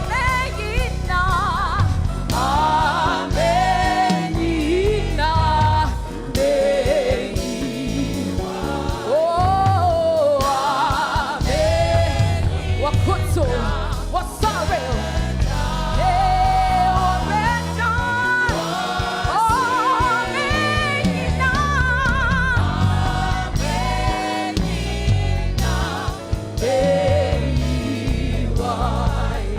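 Gospel song: voices singing together as a choir over band accompaniment with a steady bass.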